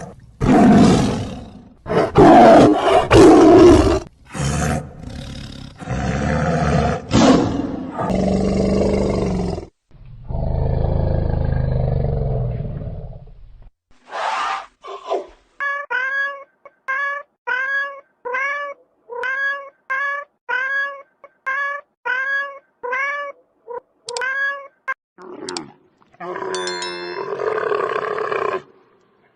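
A sequence of different animal calls: loud, harsh roar-like calls first, then low-pitched calls, then a run of about a dozen short, repeated pitched calls, each falling in pitch, about one to two a second.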